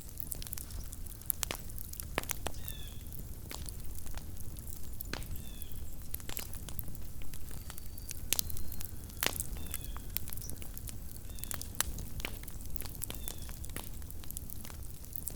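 Campfire crackling: irregular sharp pops and snaps over a steady low rumble of burning wood. A faint short high chirp, falling in pitch, recurs every couple of seconds.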